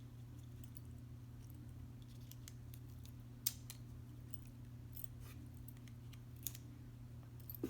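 Faint scattered clicks and light taps as pine cone pieces and twigs are set in place, over a steady low hum. Two sharper clicks stand out, about three and a half seconds in and near the end.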